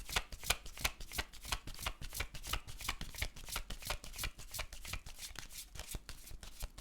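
A deck of tarot cards being shuffled by hand: a steady run of quick, crisp card clicks, about five a second.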